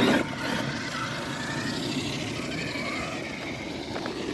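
Electric RC monster truck running, its motor giving a wavering whine over a steady rushing noise, which starts suddenly at the beginning.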